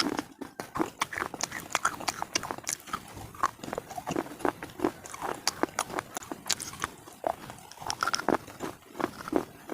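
Close-miked crunching as a person bites and chews brittle slate pieces, cubes and bars, in a quick, irregular run of sharp cracks, several a second.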